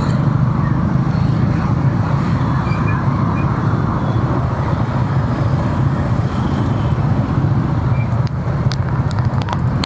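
Steady road and engine rumble from driving through city traffic, with a few sharp clicks near the end.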